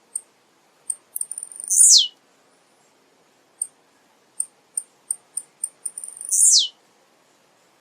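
Male blue-black grassquit (tiziu) singing twice, about four and a half seconds apart. Each song is a run of short, very high ticks that quicken, then a loud note sliding sharply down in pitch.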